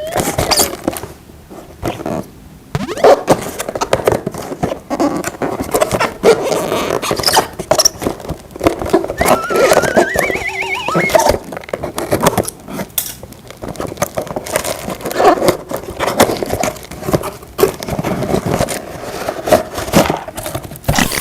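Plastic toy pieces clicking and clattering as toys are handled and put together, with a short warbling electronic tone about halfway through.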